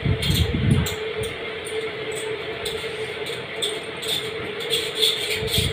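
Close-up chewing and mouth sounds of someone eating rice and curry, short irregular clicks over a steady electric hum, with a low rumble in the first second.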